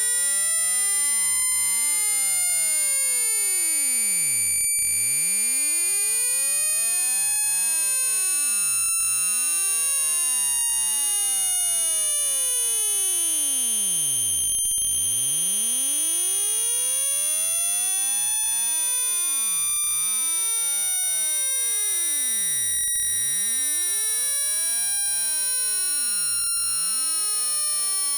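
Synthesized speaker-cleaning tone: a steady high electronic whine, with several pure tones sliding slowly up and down in pitch over a few seconds each.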